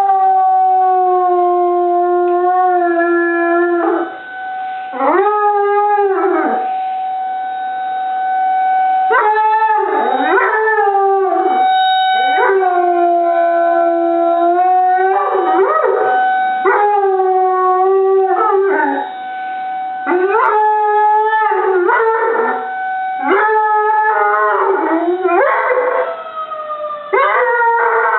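Treeing Walker Coonhound howling along with a tornado siren: about a dozen long howls, each rising at the start and dropping off at the end, over the siren's steady wail.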